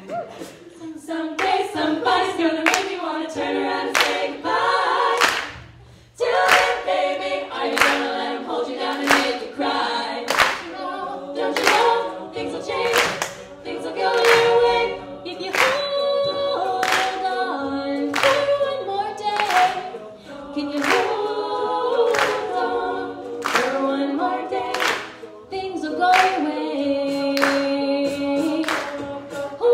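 A cappella vocal group singing in close harmony over a sharp, regular beat that falls about every two-thirds of a second. The voices drop away briefly about six seconds in, then come back in together.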